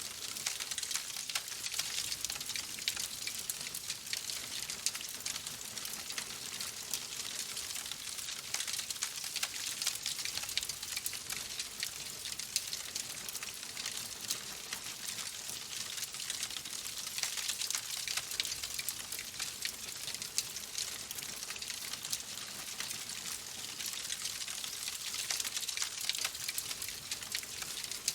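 Fireplace fire crackling: a dense, steady stream of small pops and snaps over a soft hiss.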